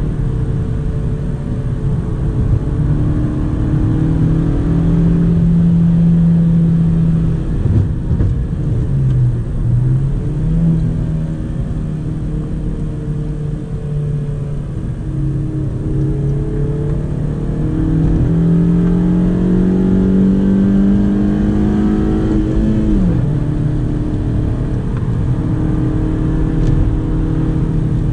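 Honda Civic 1.8 i-VTEC four-cylinder engine heard from inside the cabin, pulling hard through the gears. The note climbs steadily for several seconds and falls sharply a few seconds before the end at an upshift of the manual gearbox, with a shorter dip and recovery earlier on.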